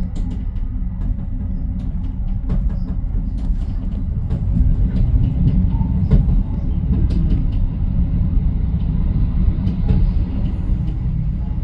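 Commuter train in motion, heard from inside its rear cab car: a steady low rumble of wheels on the rails, with scattered sharp clicks and rattles.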